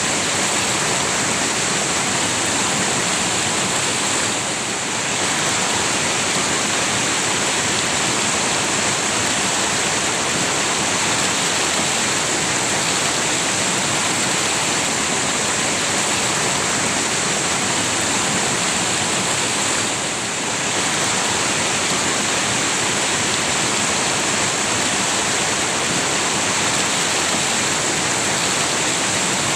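River water rushing steadily, a dense even hiss of flowing water that eases slightly twice for a moment.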